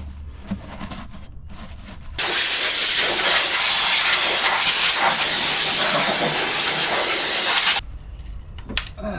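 A pressurized spray hissing loudly and steadily for about five and a half seconds, starting about two seconds in and cutting off abruptly.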